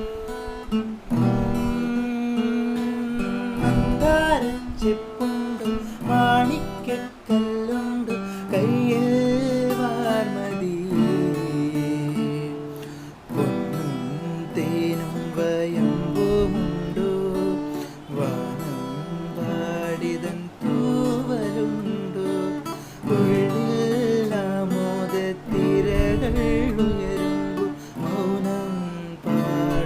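Acoustic guitar strummed and picked through a series of chord changes, with a wavering melody line over it at times.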